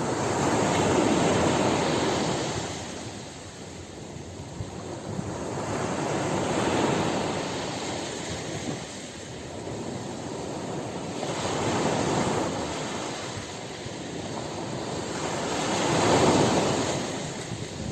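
Ocean waves breaking and washing on a shore, swelling and ebbing four times, about every five seconds.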